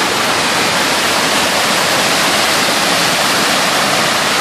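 Water pouring down a waterfall: a loud, steady, unbroken rush.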